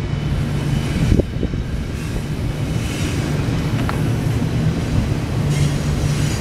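Union Pacific double-stack intermodal train's well cars rolling past: a steady rumble of steel wheels on rail, with a single knock about a second in.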